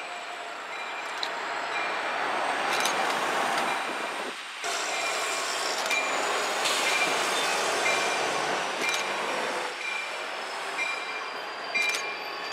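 CSX freight locomotive and grain train rolling slowly along street track, with a steady rail rumble and a thin, high wheel squeal from the flanges. A short ringing tone repeats about once a second, typical of the locomotive's bell rung for street running, and there are a few sharp clicks from the wheels.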